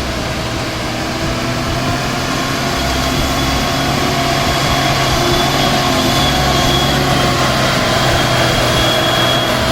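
Truck engine running steadily under way, with a low hum and a thin higher whine; it grows slightly louder after about two seconds.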